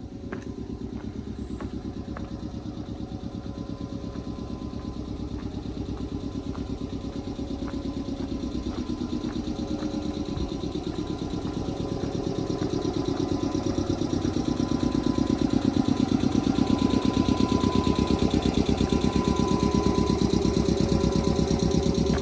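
Nankai 2200 series electric train heard from inside the car as it pulls away from a station. The running and motor noise is a fast, even pulsing that grows steadily louder as it picks up speed.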